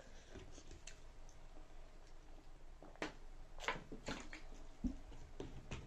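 A person eating ramen noodles: soft wet mouth sounds, with about five short sharp clicks in the second half.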